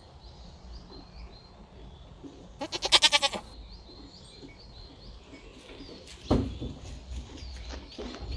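A farm animal bleats once about three seconds in, a loud, quavering call, over faint bird chirps; a single thump follows just after six seconds.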